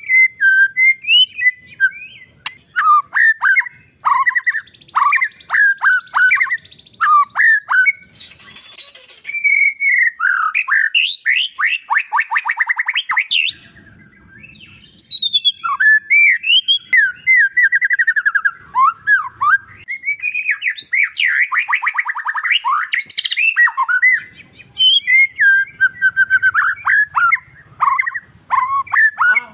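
White-rumped shama (murai batu) singing a loud, varied song of quick whistled phrases broken by fast rattling trills.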